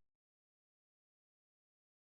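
Silence: the soundtrack has cut off.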